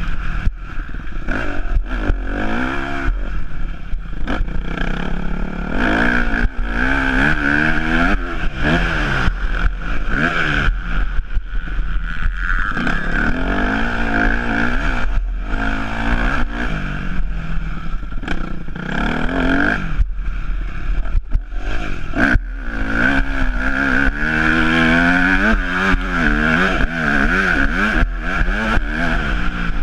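Yamaha YZ250F four-stroke single-cylinder motocross engine being ridden hard, its revs repeatedly climbing and dropping back, with many short knocks and clatter mixed in.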